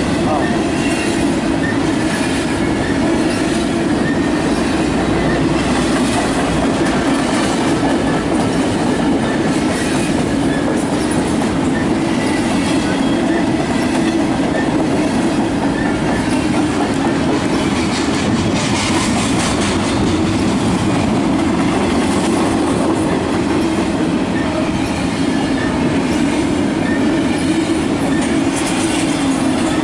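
Double-stack intermodal well cars rolling past close by: a steady, loud rumble of steel wheels on rail, with clicking as the wheels cross rail joints.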